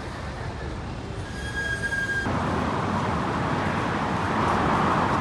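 A short steady electronic tone, then an electric hand dryer starting abruptly about two seconds in and blowing with a loud, steady rush of air.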